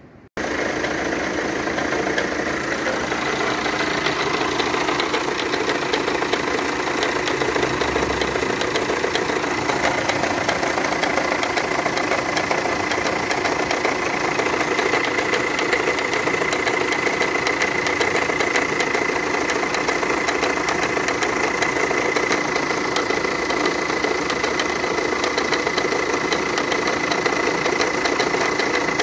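An engine idling steadily, with a thin high whine held on one pitch through it.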